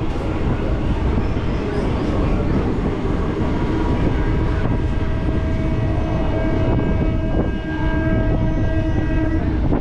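Passenger train running through a station without stopping, heard from a sleeper coach's open doorway: a steady rumble of wheels on rail. About three and a half seconds in, a long pitched tone joins and holds until near the end.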